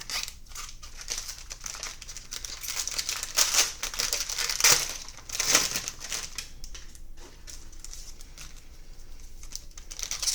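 Plastic trading-card pack wrapper crinkling as it is handled and torn open, a run of uneven rustling bursts with the loudest near the middle.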